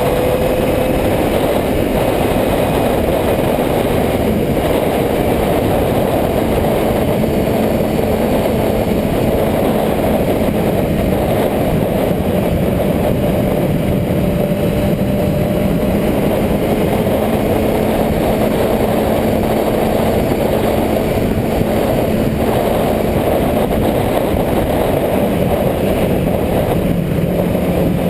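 Motorcycle engine running at a fairly steady pitch, buried in a loud, constant rush of noise, with slight rises and falls in engine pitch.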